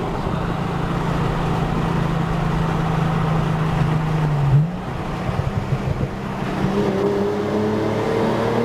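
Car engine and exhaust on the highway: a steady drone, then a sudden jump in revs with a loud bark about four and a half seconds in. A second or so of choppy burble follows before the engine note climbs steadily as the car accelerates.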